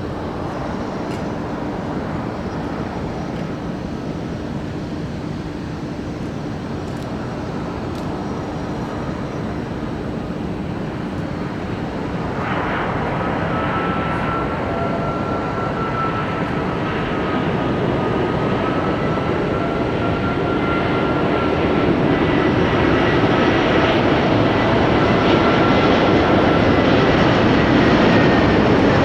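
Jet airliner's engines, a dense steady roar that grows gradually louder. A high, slightly wavering whine joins about halfway through.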